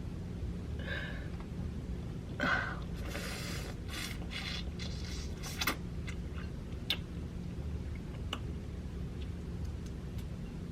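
Quiet food-handling and eating sounds: scraping and rustling for a few seconds, then a few isolated small clicks, over a steady low hum.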